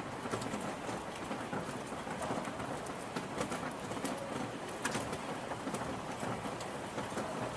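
Steady rain falling, with many close drips and taps of drops hitting a surface. A bird calls faintly a few times underneath.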